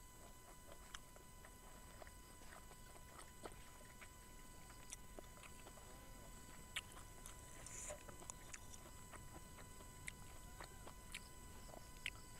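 Faint close-up chewing of braised beef, with scattered small clicks as a metal spoon scoops from a ceramic bowl.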